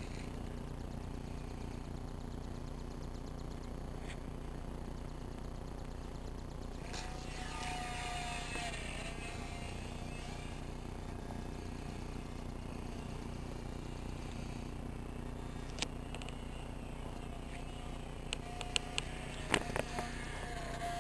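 Small twin electric motors and propellers of a toy RC airplane whining as it passes about seven seconds in, over a steady low hum. The whine comes back near the end, along with a few sharp clicks.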